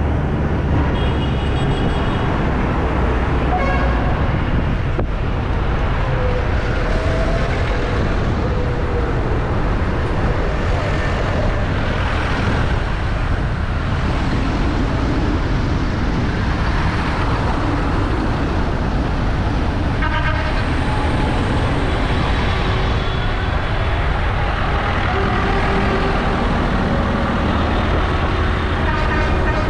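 Tractor engines running steadily as the convoy drives along the road, a loud continuous low drone. Short horn toots sound a few times: just after the start, about two-thirds of the way in, and near the end.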